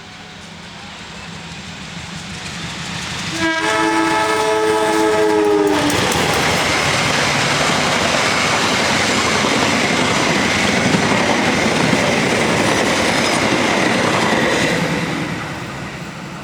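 Diesel-hauled express passenger train passing at speed. Its horn sounds for about two seconds as it arrives, the chord dropping in pitch as it goes by. The loud rush and clatter of the coaches passing follows, and fades away near the end.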